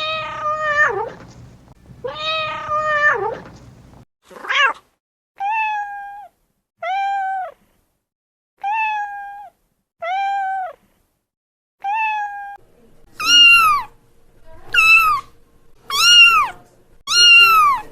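Cats meowing: two long meows, then a run of shorter, even meows about every second and a half, and near the end a quicker series of higher-pitched meows that rise and fall.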